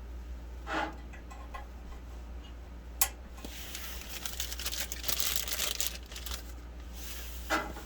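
Plastic packaging crinkling and rustling as small replacement board-mounting clips are handled, with a sharp click about three seconds in and a longer stretch of crackling in the middle.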